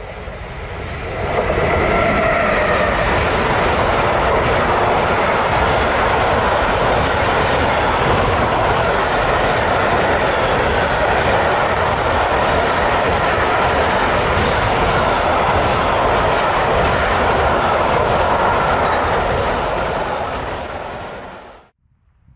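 A train passing close by: the rumble of its wheels on the rails rises sharply about a second in, stays loud and steady, then fades and cuts off abruptly near the end.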